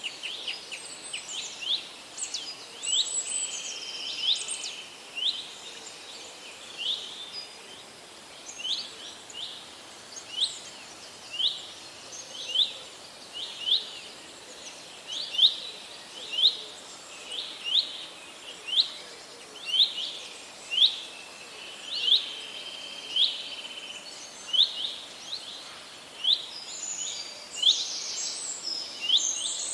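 Birds singing in a forest. One bird repeats a short rising whistled note about once a second, while other birds chirp higher up, and several calls crowd together near the end.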